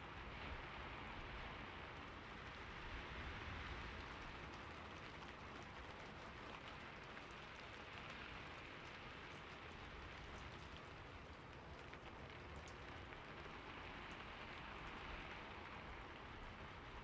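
Steady rain falling on a roof, an even hiss with scattered faint drop ticks.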